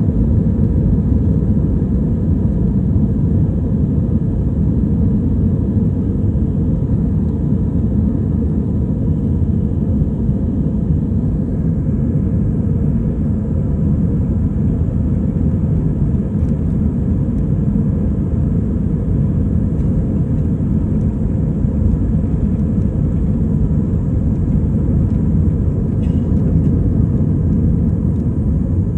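United jet airliner taking off: a loud, steady low rumble of jet engines at takeoff power, with a faint steady tone above it.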